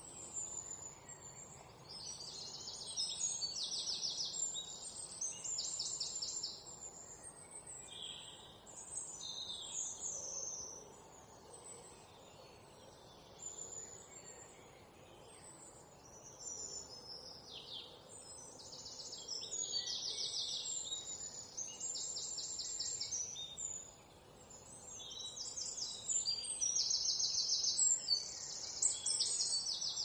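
Small birds chirping and singing, with bursts of high, rapid trills and short whistled notes that come and go, loudest near the end, over a faint steady outdoor hiss.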